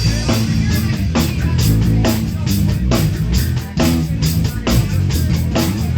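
Live band playing with drums and guitar, keeping a steady rock beat.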